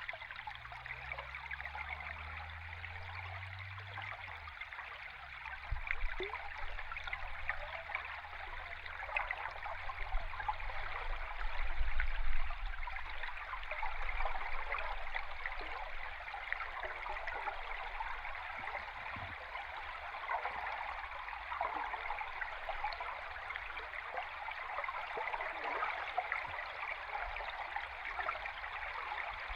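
Stream water recorded underwater: a dense, steady fizzing and bubbling rush. A low hum rises in pitch over the first few seconds, and low rumbles come about six and twelve seconds in, the second one the loudest.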